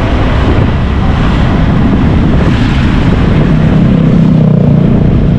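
Motorcycle engine running while riding, with wind rumbling on the microphone. The engine's drone grows stronger about three and a half seconds in.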